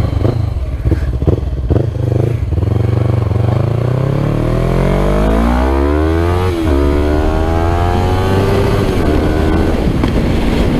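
Yamaha R3's 321 cc twin-cylinder engine breathing through a full Akrapovic exhaust, with a few sharp pops at low revs at first. It then accelerates with a rising pitch, drops sharply on an upshift about six and a half seconds in, and climbs again before holding steady.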